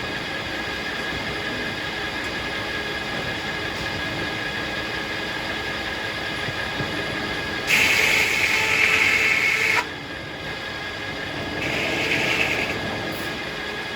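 Circular sawmill running with a steady high whine. About eight seconds in, a louder, harsher sound lasts about two seconds and stops abruptly, and a smaller swell follows near the end.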